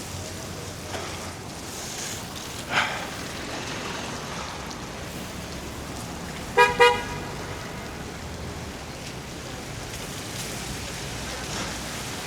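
A car horn gives two short toots in quick succession about six and a half seconds in, over a steady bed of traffic and tyre noise on the wet road.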